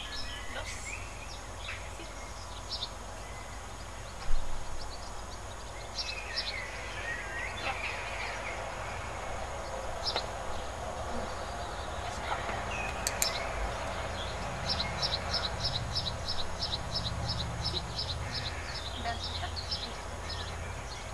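Outdoor ambience of birds chirping and calling, ending in a long run of quick repeated high notes, about three a second. A single sharp knock about four seconds in, over a low steady rumble.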